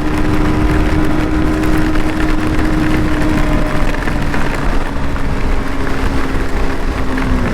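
Motorcycle engine running at a steady speed while riding, its note sinking slightly lower toward the end, under a steady rush of wind and rain noise.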